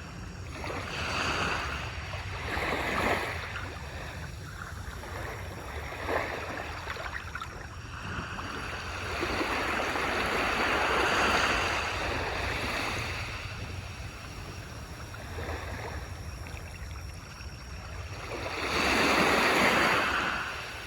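Small waves breaking and washing up on a beach, each wash swelling and fading over a few seconds, the largest near the end, over a steady low rumble of surf and wind on the microphone.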